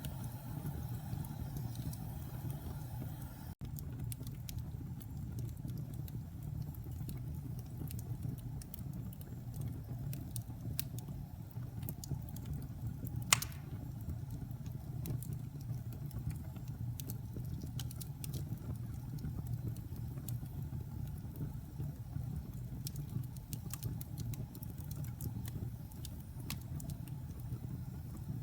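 Wood fire in a fireplace crackling over a steady low rumble, with scattered small pops and one sharp, louder pop about halfway through.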